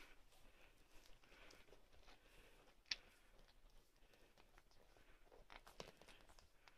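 Near silence with faint rustling and a few small clicks. There is one sharper tick about three seconds in and a short cluster of clicks near the end.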